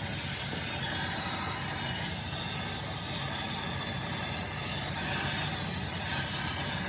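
Steady machine noise: a continuous low hum with a constant high hiss, with no separate knocks or strikes.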